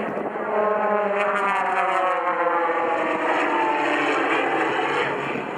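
Aircraft engine flying past at an air show, its pitch falling steadily as it goes by.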